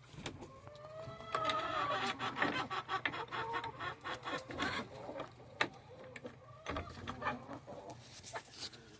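Hens clucking amid a run of clattering and knocking, densest in the first half.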